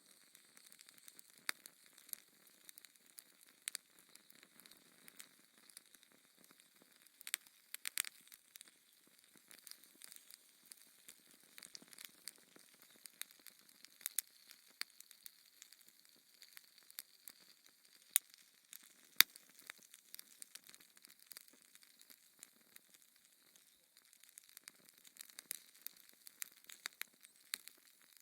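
Wood fire crackling in a fireplace: a soft steady hiss with irregular sharp pops and snaps, two louder pops about two-thirds of the way through.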